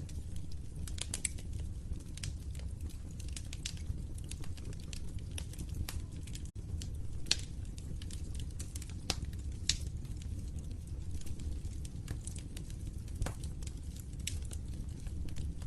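Wood fire crackling in a fireplace: irregular sharp pops and snaps over a steady low rumble of flames. The sound drops out for an instant about six and a half seconds in.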